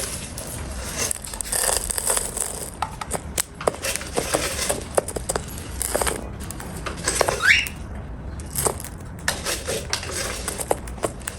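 A cockatiel eating: quick, irregular crunching and cracking clicks of its beak working its food. A single short rising squeak comes about seven seconds in.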